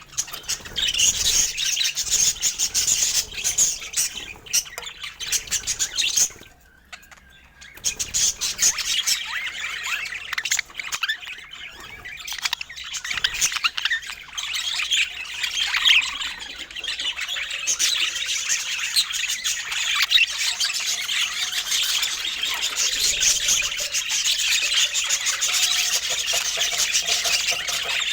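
Several budgerigars chirping and chattering in rapid, overlapping warbles, with a brief lull about seven seconds in.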